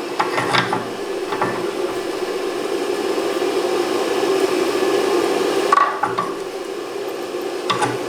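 Mild steel flat stock being bent in a blacksmith's bending fork: a few short metal-on-metal scrapes and clinks, about four in all, over a steady background hum.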